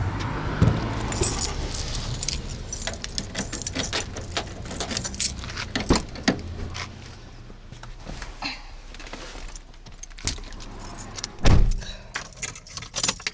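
Keys jangling among a run of small clicks and knocks, over a car's low hum, with one heavy thump near the end.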